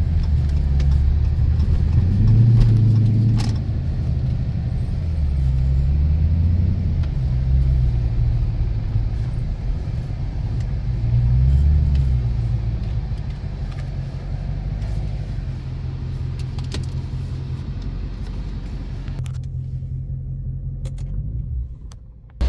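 Dodge 392 HEMI 6.4-litre V8 running while the car is driven, with road noise; the engine's low rumble rises and falls in pitch with speed. Near the end the sound drops away quickly.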